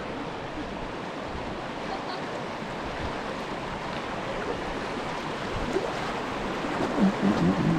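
Steady rush of moving creek water around a kayak, with a few short low pitched sounds near the end.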